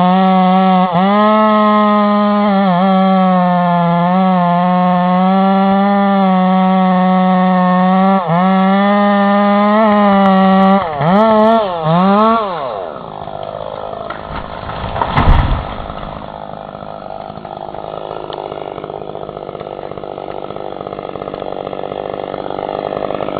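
Two-stroke chainsaw running at full throttle in a cut, its note dipping briefly now and then and blipped up and down a few times before it falls away. A single loud thump follows a few seconds later, then a steadier, quieter noise that slowly grows.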